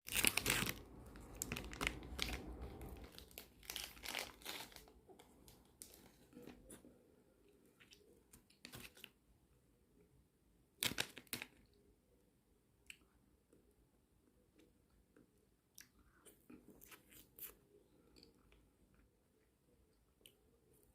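Plastic wrapper of an ice cream bar torn open and crinkled, densest in the first few seconds, followed by scattered bites and chewing sounds of ice cream being eaten close to the microphone.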